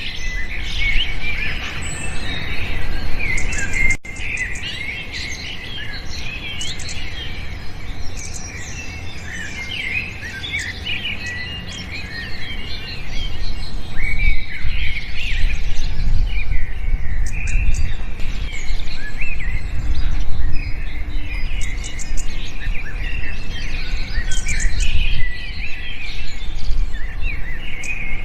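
Many small birds chirping and twittering at once in a dense, overlapping chorus, over a steady low rumble. The chorus thins for a stretch and then fills in again about halfway through.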